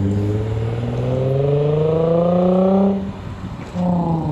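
A car engine revving as the car accelerates hard, its pitch climbing steadily for about three seconds, then a brief drop at a gear change before it climbs again near the end.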